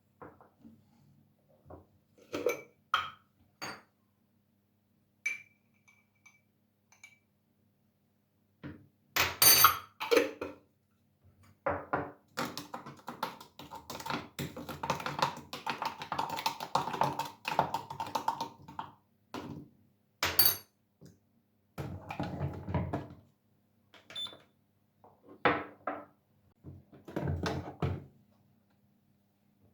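Kitchen utensils and dishes clinking and knocking in short bursts, with a longer stretch of continuous scraping and rattling in the middle.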